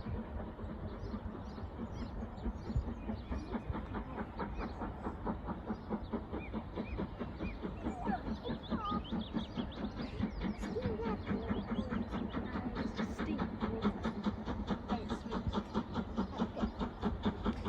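Steam train running along the line, a steady rapid rhythm of beats over a low rumble that grows louder toward the end as it comes closer.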